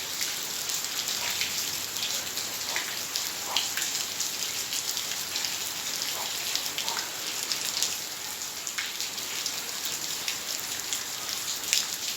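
Heavy rain falling steadily, with many separate drops and drips tapping on nearby surfaces through the steady hiss.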